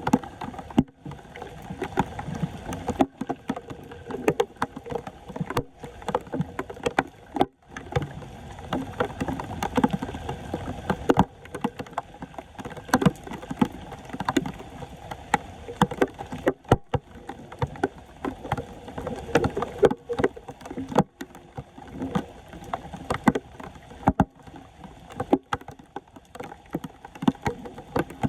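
Water sloshing and splashing in standing flood water, with frequent sharp knocks and clicks, broken by a few abrupt cuts.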